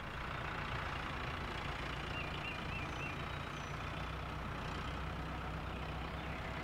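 Car engine running steadily as a driving sound effect for a cartoon car.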